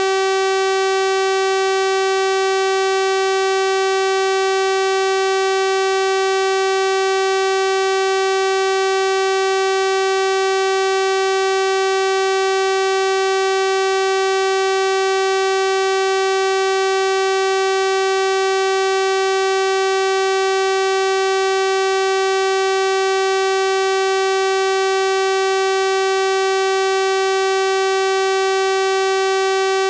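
Steady electronic 384 Hz sawtooth-wave tone, a constant buzzy pitch with a full series of harmonics, unchanging.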